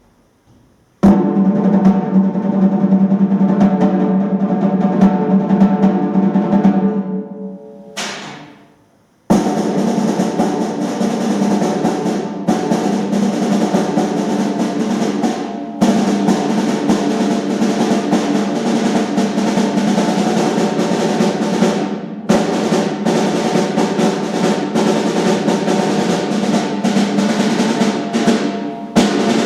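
Percussion music: sustained drum rolls. They start about a second in and fade out around eight seconds, then start again sharply about nine seconds in and carry on, with brief breaks between phrases.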